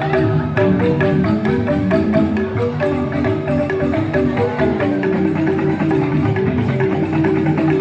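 Balinese joged bumbung gamelan: bamboo-tube xylophones playing fast, dense interlocking patterns with percussion, continuously.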